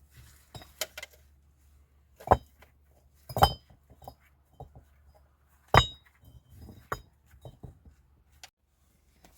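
Hard objects clinking and knocking together in scattered sharp knocks, the three loudest about two, three and a half, and six seconds in.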